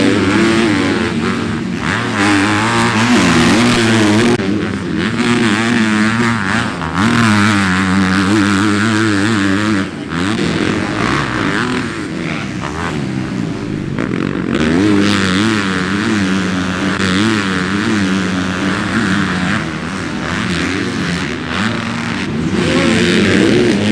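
Motocross bike engine being ridden hard around a dirt track, its pitch rising and falling over and over as the throttle is opened and shut through jumps and corners.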